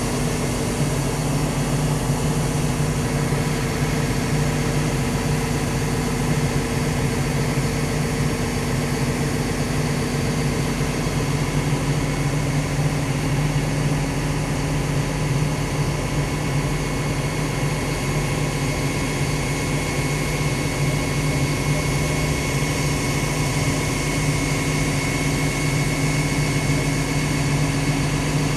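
Liugong CLG922E crawler excavator's Cummins diesel engine running steadily at an even speed, with a thin high whine above the engine note that grows stronger in the second half.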